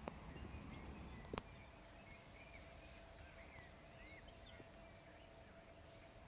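Quiet outdoor ambience with faint small bird chirps, one sharp click about a second and a half in, and then a faint steady hum.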